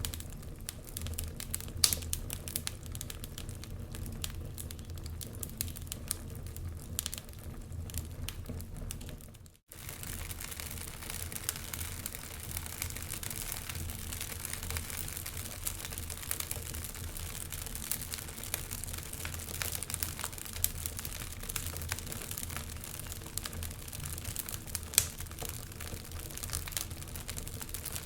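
Wood fire crackling in a fireplace: many small sharp pops and snaps over a low steady rumble. The sound drops out for a moment about ten seconds in, then resumes with more hiss behind the crackle.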